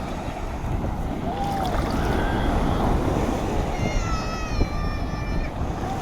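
Storm wind buffeting the phone's microphone over sea surf. About four seconds in, a high, drawn-out call sounds for about a second and a half, falling slightly in pitch.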